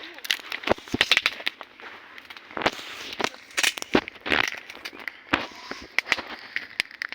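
Campfire crackling, with irregular sharp pops and snaps of burning wood.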